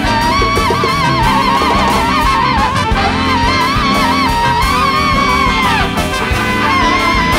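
A large jazz band playing live. A lead horn or string line wails around one pitch with bends and vibrato and slides down near the end, over guitar, bass, keyboards and drums.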